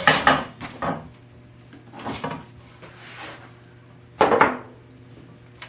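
Metal tools and small objects being handled on a workbench: several separate clinks and scrapes, a louder one about four seconds in, and a short sharp click near the end, over a steady low hum.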